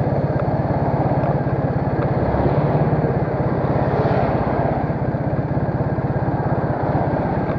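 Triumph Bonneville parallel-twin engine running at low revs, a steady, even exhaust beat.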